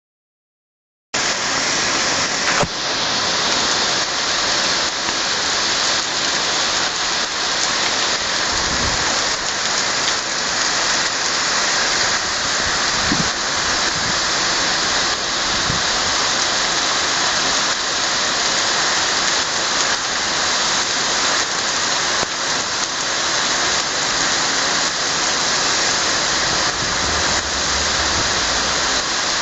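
Tropical-storm rain and wind: a steady, dense hiss of heavy rain that starts after about a second of silence, with a few brief low rumbles.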